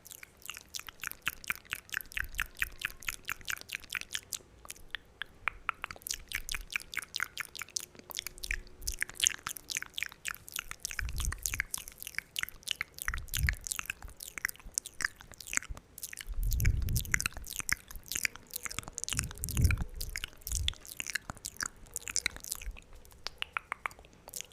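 Wet mouth sounds made close to an ASMR microphone: rapid, dense wet clicks and smacks of the tongue and lips, several a second, with a few deeper thuds in the second half.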